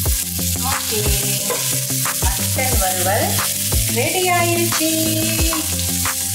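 Mutton pieces frying dry in coconut oil in a pan, sizzling as they are stirred and turned with a wooden spatula, the masala cooked down until almost dry. Background music with a steady beat and a melody plays throughout.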